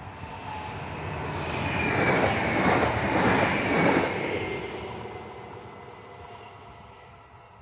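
EN63A electric multiple unit passing at speed. The noise builds to a peak about two to four seconds in, then fades away, with a faint whine that drops slightly in pitch as it goes by.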